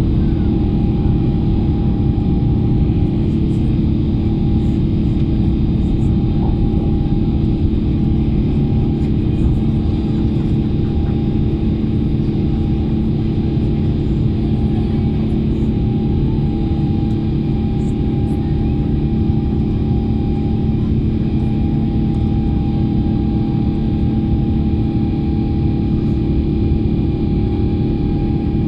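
Steady cabin noise inside an Airbus A350-900 during takeoff: a loud, even rumble from its Rolls-Royce Trent XWB engines and the rushing air, with several steady humming tones over it.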